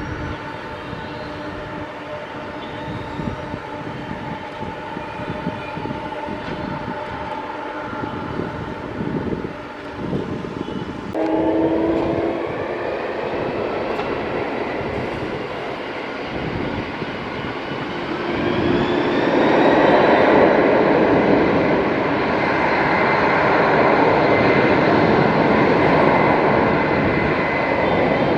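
Jet airliner engines whining steadily, then spooling up about a third of the way in: the whine rises in pitch and a broad roar builds to its loudest about two-thirds through and holds, as for a takeoff power run.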